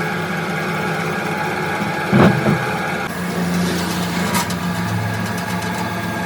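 An engine running steadily, with a loud metallic knock about two seconds in and a lighter knock a couple of seconds later.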